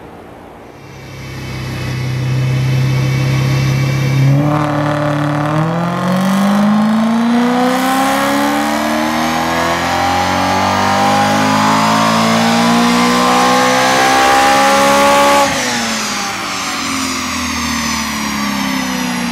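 BMW E92 M3's S65 V8 breathing through an Eisenmann Race exhaust with X-pipe, on a dyno run. It holds steady revs for a few seconds, then the revs climb steadily under full throttle for about eleven seconds. Near the end it cuts off sharply and the revs fall away.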